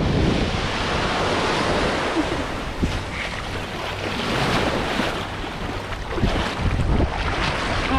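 Ocean surf washing and breaking in the shallows, with wind rumbling on the microphone.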